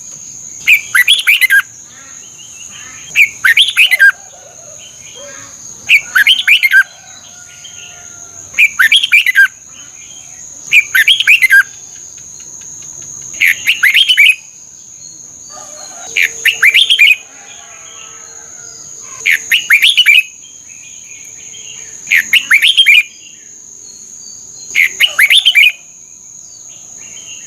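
Red-whiskered bulbul song: a short, loud phrase of quick falling notes, repeated about every two and a half to three seconds, over a steady high-pitched whine.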